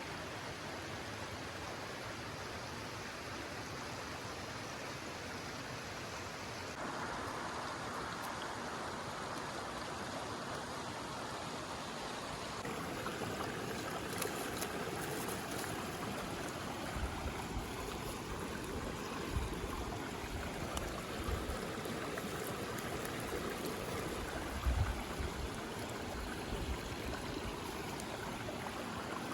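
Steady rushing of flowing water, like a stream, with a few short low bumps in the second half.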